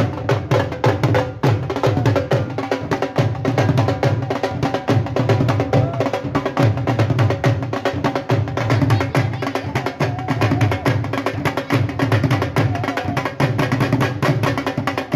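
Dhol-style drumming with music: a fast, dense drum rhythm over a steady low beat, with faint sustained melodic tones above.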